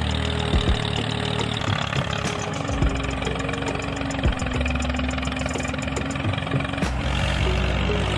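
Small engine running steadily at idle, with scattered sharp knocks and a held hum that shifts pitch a few times.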